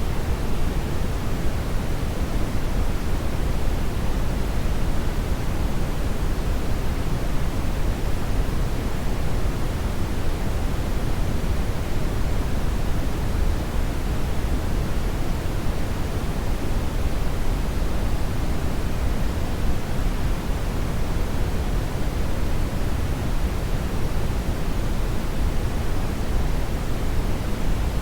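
Hair dryer running steadily: an even rushing of air, heaviest in the low end, that does not change.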